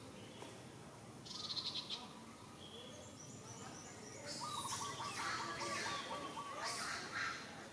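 Birds singing: a short fast high trill about a second in, then from about four seconds in a rapid string of short repeated notes, with high chirps over them.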